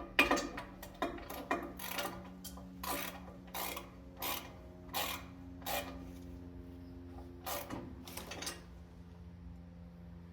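Hand-tool work on metal parts: a run of short scraping strokes, about one every 0.7 seconds, some with a brief metallic ring, fading out after about six seconds over a steady low hum.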